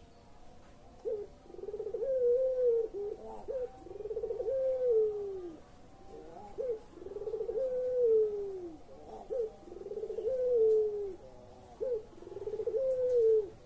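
Puter pelung dove cooing: five repeated phrases, each a short note followed by a long, wavering coo that rises and then sinks, about every two and a half seconds.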